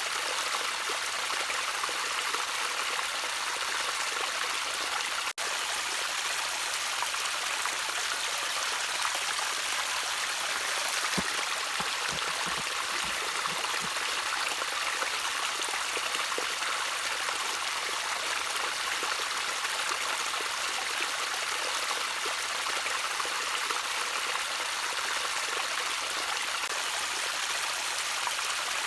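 Gentle trickling water from a small stream, a steady hiss-like splashing, with a few low plops between about 11 and 14 seconds in. The sound cuts out for an instant about five seconds in.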